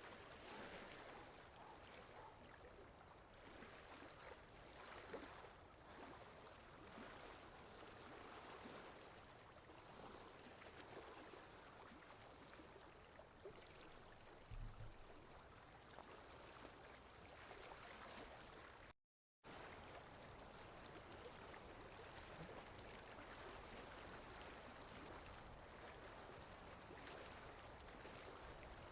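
Steady rain falling, a faint even hiss with fine patter. A brief low thud about halfway through, and the sound cuts out completely for a split second about two-thirds of the way through.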